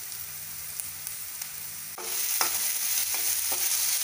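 Chopped onions, green chillies and ginger-garlic paste frying in oil in a nonstick pan while a slotted spatula stirs them. About two seconds in the sizzle turns suddenly louder, once chopped tomatoes are in the pan, and the spatula scrapes the pan a few times.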